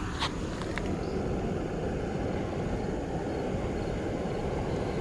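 Steady low rush of water from the creek's falls, with a couple of faint clicks in the first second.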